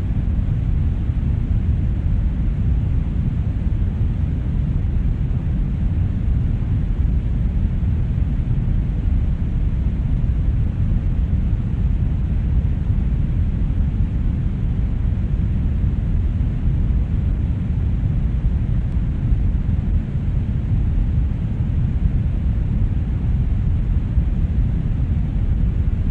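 Brown noise: a steady, deep rumbling hiss with most of its energy in the low end and little in the highs, unchanging throughout.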